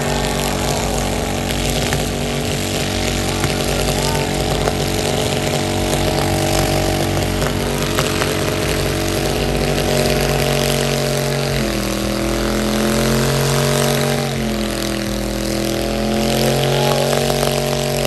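A burnout car's engine held at high, steady revs while its rear tyres spin in a burnout. About two-thirds of the way through the revs drop, then dip and rise again, over the steady hiss of the spinning tyres.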